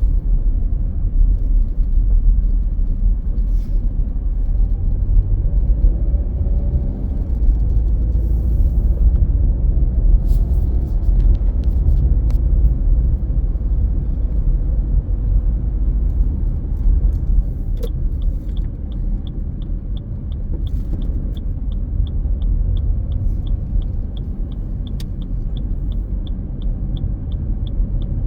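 A car being driven, a steady low rumble of road and wind noise. About two-thirds of the way through a regular ticking starts, two to three ticks a second.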